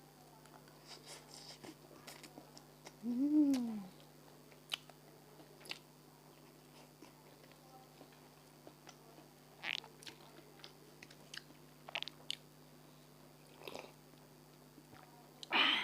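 Close-up eating sounds: scattered bites, crunches and mouth clicks. About three seconds in there is a short pitched sound that rises then falls, and a louder crunching burst comes near the end.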